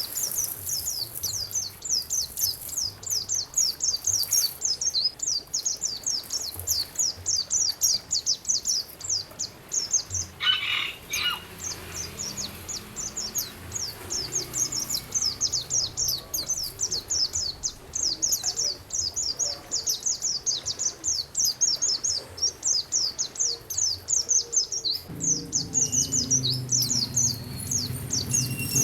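Songbird singing a long, rapid run of high, short downward-sweeping notes, several a second, over a steady hiss of running water; a stronger low sound builds in the last few seconds.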